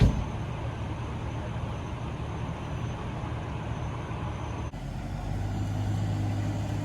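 Vehicle engines running with road noise, with a short loud knock at the very start; a little under five seconds in, the sound changes abruptly to a steady low engine hum that grows louder.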